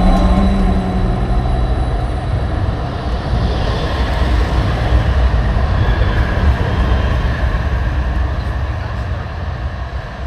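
Tram running on its rails, a steady low rumble with wheel and rail noise.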